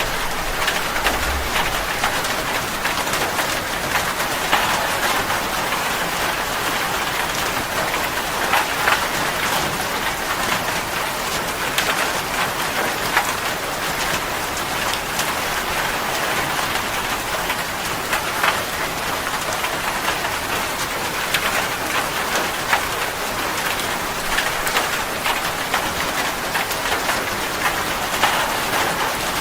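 Steady rain falling, a constant hiss with the ticks and patters of separate drops hitting a surface.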